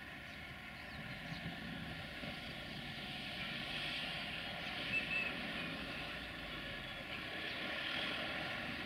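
A train rumbling at a distance, steady and slowly growing louder, with a brief high chirp about five seconds in.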